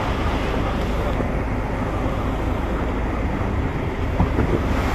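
Fishing boat's engine running steadily, with wind buffeting the microphone and waves surging. A brief knock about four seconds in.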